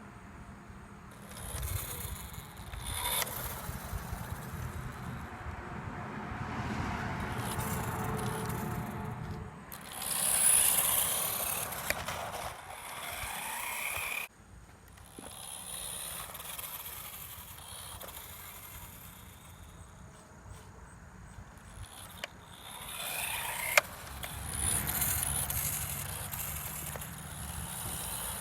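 Radio-controlled road-racing car driving about: a motor whine that rises and falls as it speeds up and slows, with tyre and scraping noise that swells as it passes close. The sound cuts off abruptly a couple of times, and there is a sharp click near the end.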